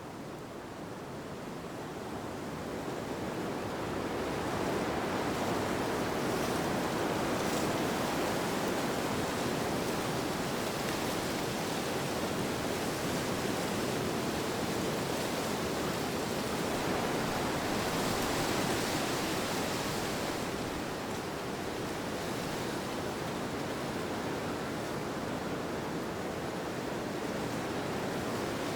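Wind rushing in a steady wash, swelling over the first few seconds, then rising and easing slowly in long gusts.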